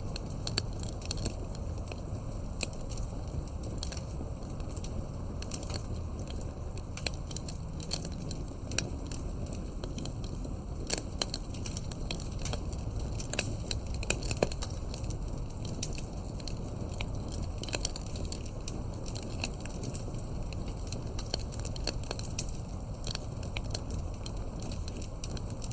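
Campfire crackling: irregular sharp pops and snaps of burning wood, several a second with a few louder ones, over a low steady rumble.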